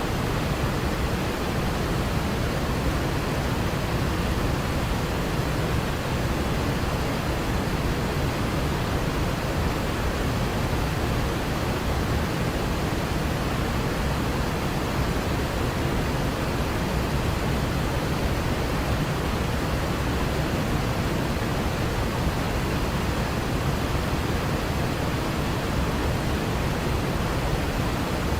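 Waterfall: a steady, unbroken rush of falling water, strongest in the low end.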